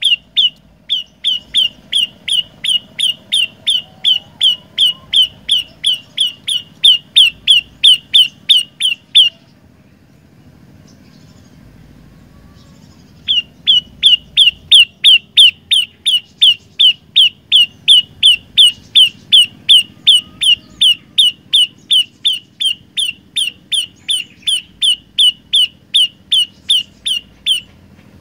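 Olive-backed tailorbird (prenjak lumut) calling: a fast, even series of sharp repeated notes, about three a second. The series breaks off about a third of the way through and resumes after a pause of about four seconds.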